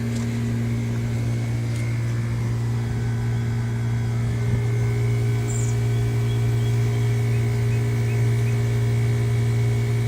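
A 1970s Lennox central air conditioner running steadily: a deep, even hum from the compressor with the steady rush of the condenser fan, in good working order.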